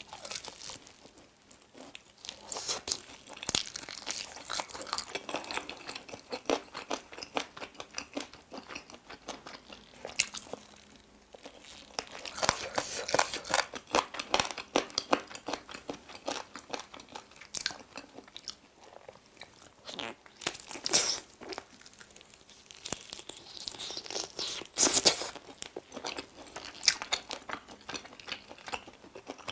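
Close-miked biting and chewing of sauce-coated chicken wings and drumsticks: a run of irregular crunches and mouth clicks, the loudest bite about 25 seconds in.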